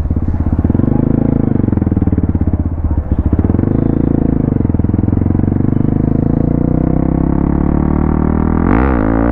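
Modified Hero XPulse 200's single-cylinder engine running under way, its revs rising and falling, with a brief break in the note about three seconds in. Near the end, a pitched, music-like tone comes in over it.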